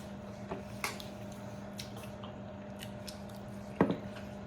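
Wet chewing and squishing mouth sounds of people eating grilled chicken with their hands, with a few short smacks, the loudest near the end, over a steady low hum.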